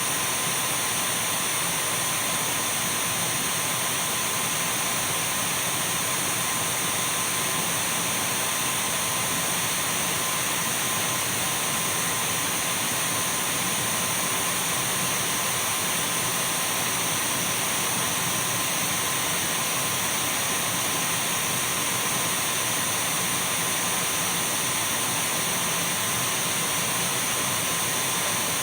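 Dyson V12 cordless stick vacuum running steadily: an even, unchanging rush of air with a thin, steady high whine on top.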